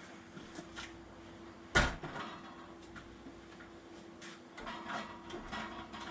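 Knocks and bumps from an old tank-type water heater being worked down steps one at a time, with one loud bang a little under two seconds in and lighter knocks scattered around it.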